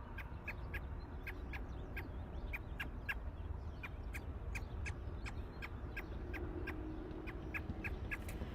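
American robin giving a steady series of short, sharp chip calls, about three a second, over a low background rumble.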